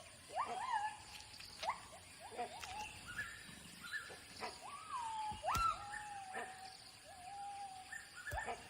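Gibbons calling: a run of rising, whooping hoots that swoop up and level off, about one or two a second, with more than one voice overlapping, as part of a territorial display against intruders. A few short knocks sound among the calls.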